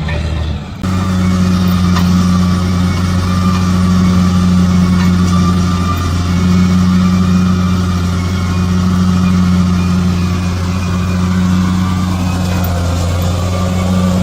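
Bulldozer's diesel engine running steadily under load, with a short dip and change in tone about a second in.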